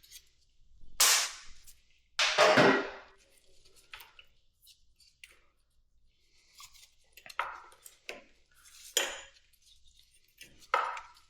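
Metal hand tools clinking and clattering against motorcycle parts during teardown, in separate bursts, with two louder clatters in the first three seconds and lighter clinks after.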